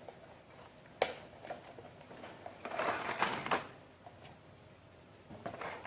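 Beyblade toy packaging being opened by hand: a sharp click about a second in, then a second or so of rustling and clicking as the package is pulled apart, with a few more clicks near the end.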